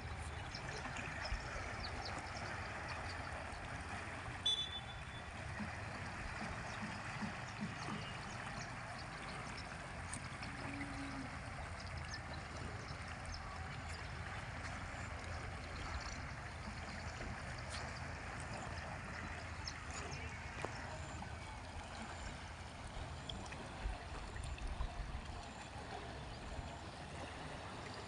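Steady rush of flowing river water, with a low rumble underneath and a few faint clicks.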